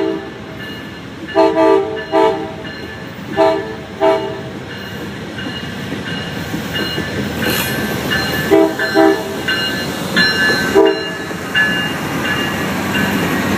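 Amtrak passenger train's multi-note air horn sounding a string of short blasts, about seven in all, over the rumble of the train, which grows louder as it comes closer.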